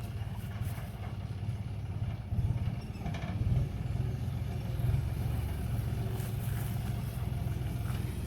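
Diesel engine of farm harvesting machinery running steadily with a fast, even low throb, briefly louder between about two and four seconds in.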